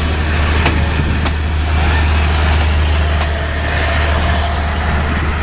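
Large diesel engine running steadily at idle, a deep constant hum, with a few sharp clicks over it.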